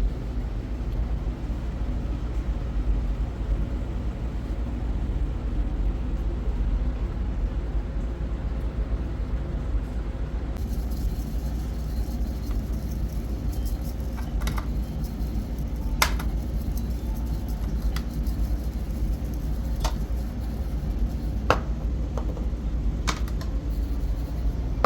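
A steady low rumble, with a few sharp clicks or knocks in the second half.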